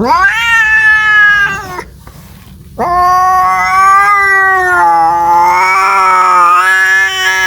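Domestic cat yowling (caterwauling): a call of nearly two seconds that rises sharply and then holds, then after a short pause a long, drawn-out, wavering yowl.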